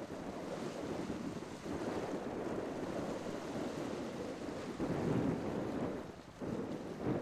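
Wind buffeting the microphone over the rush of waves at a sea inlet, a rough noise that swells and dips.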